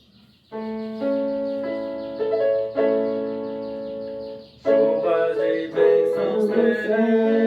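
Keyboard playing held chords as the introduction to a hymn. The chords change every half second or so, fall away briefly about four and a half seconds in, and then a fuller passage with shifting pitches begins.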